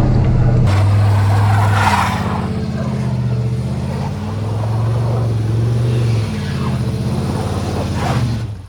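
Chevrolet El Camino's engine running and being revved up and eased off, its pitch rising and falling, with brief rushing surges about two seconds in and near the end.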